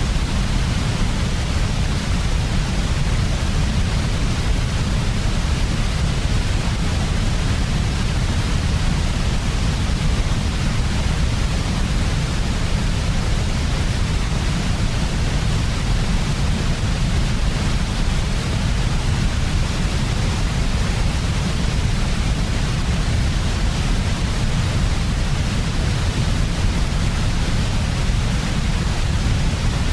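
Steady electronic white noise for sleep: an even, unbroken hiss with a heavier low rumble beneath it.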